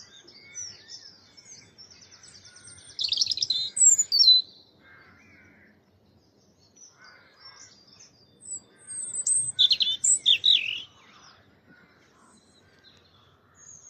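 European robin singing from a tree: two loud, high, varied song phrases, one about three seconds in and another about nine seconds in, with faint calls of other birds between them.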